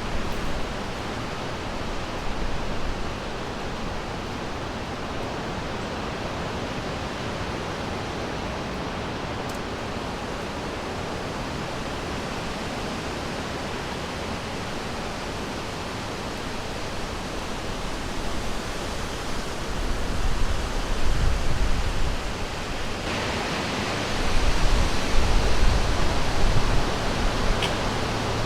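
Forest river water rushing in a steady, even hiss, with low rumbling surges in the last third.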